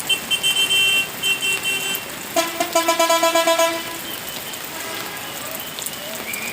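Bus horns honking in quick repeated blasts. A high-pitched horn sounds for about two seconds, then a lower, louder horn takes over for just over a second.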